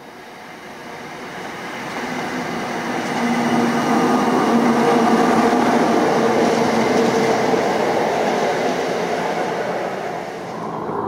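A train approaching and passing close by, growing steadily louder over the first four seconds, then running loud and steady with a low hum over the noise of the wheels.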